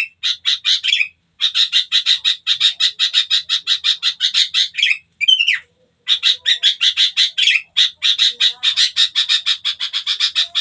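A bird giving long series of rapid chattering calls, about five or six notes a second, broken by brief pauses, with a short odd call in the pause about five seconds in.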